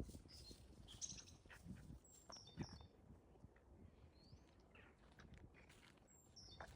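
Faint birds chirping: short, high calls scattered through, over a low outdoor rumble.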